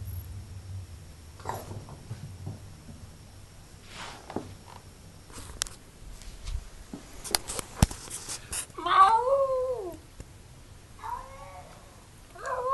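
A cat meowing: one loud, drawn-out meow about nine seconds in, a fainter one a couple of seconds later, and another starting near the end. Before the meows come a few scattered clicks and knocks.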